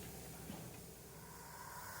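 Faint low rumble at a standing steam train, with a soft tap about half a second in. Near the end the steam locomotive's whistle begins to sound as a steady tone.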